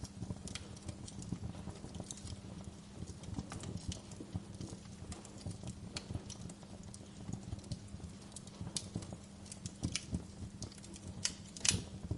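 Wood fire crackling: irregular sharp pops and snaps over a low, steady rumble of flames, with one louder pop near the end.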